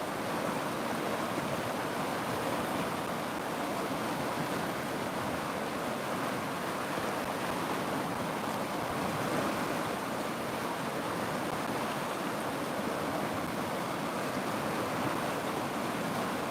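River water rushing steadily, a continuous even rush with no changes.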